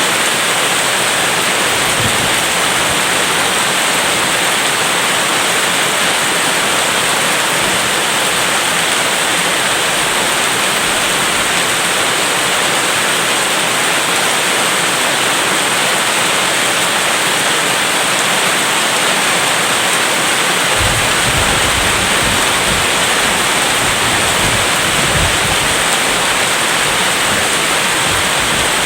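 Heavy rain falling steadily, a dense even hiss. About two-thirds of the way in, a low rumble of thunder comes and goes for several seconds.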